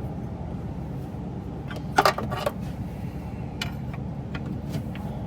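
Hand tools clinking against metal, with two sharp clanks about two seconds in and a few lighter clicks after, over a steady low hum.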